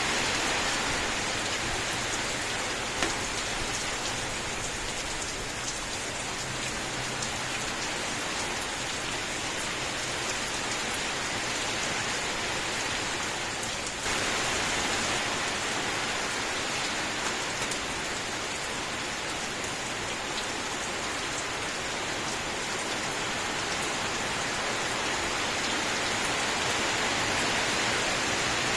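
Steady rain falling, an even hiss with scattered faint drop ticks. The level jumps up suddenly about halfway through.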